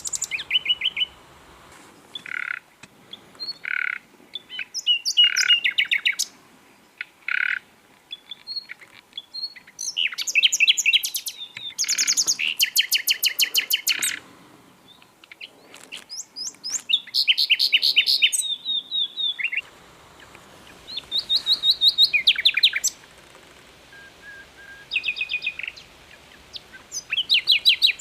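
Common nightingale singing: a run of varied phrases, with slow pure whistled notes early on giving way to fast rattling trills and repeated notes, each phrase a second or two long with short pauses between.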